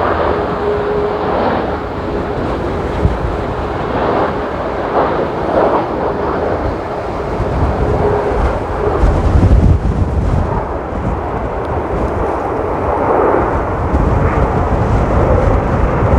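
Boeing 737-800 jet engines running at high power: a loud, steady roar with a deep rumble, and a faint steady tone that comes and goes.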